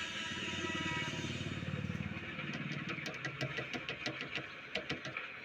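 Railway train rumbling and rattling, with a quick run of sharp metallic clicks and clanks building up in the second half; a train horn fades out at the very start.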